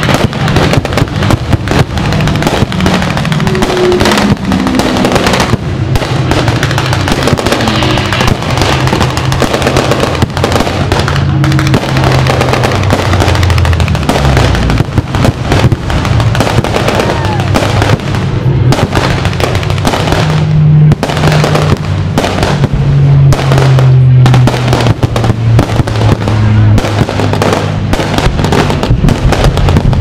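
Aerial fireworks shells bursting and crackling in quick succession over loud music.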